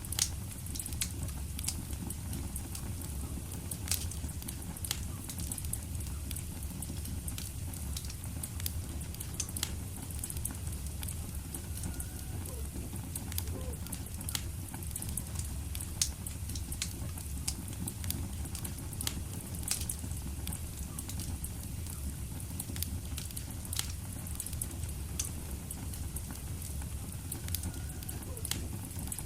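Wood fire burning in a fireplace: a steady low rumble and hiss under frequent sharp, irregular crackles and pops.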